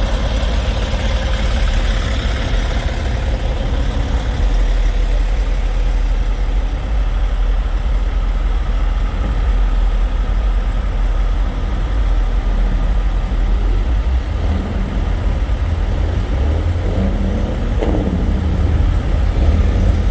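Semi-truck diesel engines idling with a steady low rumble.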